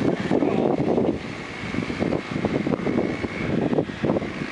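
Wind buffeting the camera's microphone in gusts during a blizzard, a rough, uneven rushing that rises and falls.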